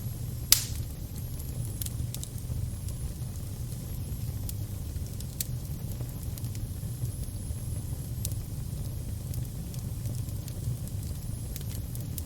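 Fire burning with a steady low rumble and sparse sharp crackles and pops, the loudest about half a second in.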